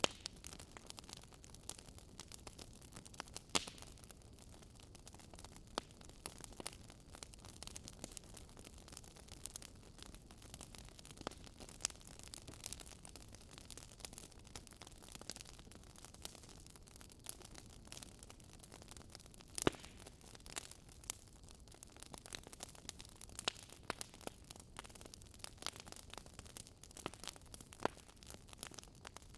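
Wood fire burning in a fireplace, with frequent sharp crackles and pops of varying strength over a soft steady hiss.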